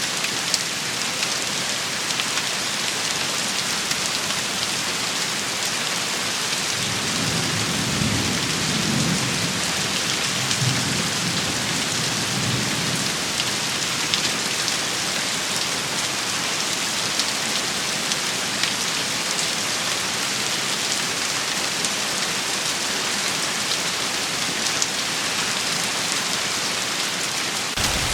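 Steady rain pattering on surfaces. Between about seven and thirteen seconds in, a low rumble of distant thunder rolls under it.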